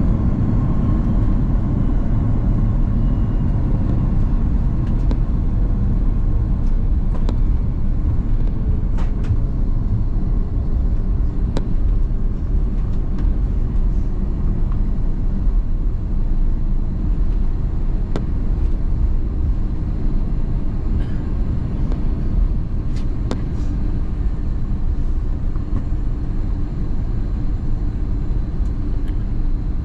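Cabin noise of an Airbus A330-200 rolling on the ground just after landing: a steady low rumble of the engines and wheels, with an engine whine gliding down in pitch over the first several seconds as the aircraft slows. Scattered light clicks sound through it.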